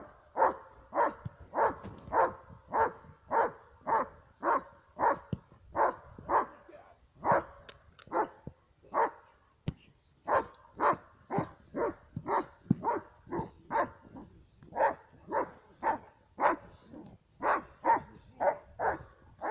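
Protection-trained dog barking steadily, about two barks a second, with a brief pause about halfway through.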